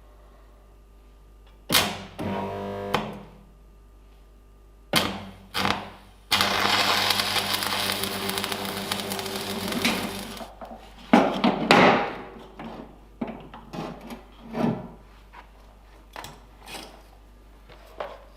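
Workshop metalwork on a steel tractor clutch fork: a power tool runs briefly, then for about four seconds steadily, followed by a string of scattered metallic knocks and clanks of parts being handled.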